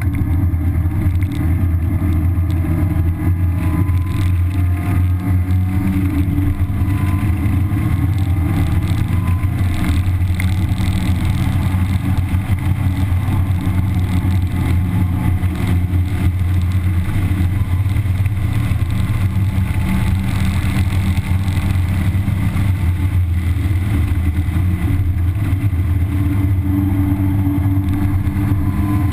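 1991 Mazda Miata's 1.6-litre four-cylinder engine with stock exhaust, heard from inside the cabin while lapping a race track: a loud, steady drone, with the engine note rising and falling in pitch as the car is driven hard.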